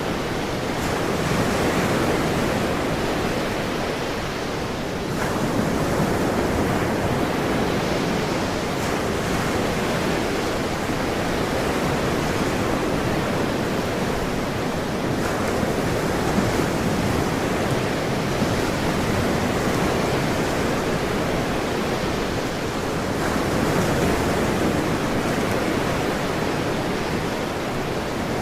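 Ocean surf washing continuously, with slow, gentle swells in loudness as waves come in.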